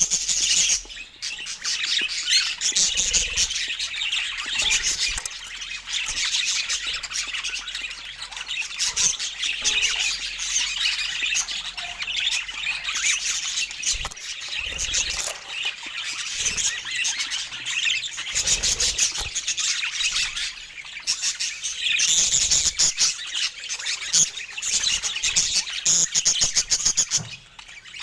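A group of parakeets chirping and chattering together without a break, dense rapid high-pitched calls overlapping.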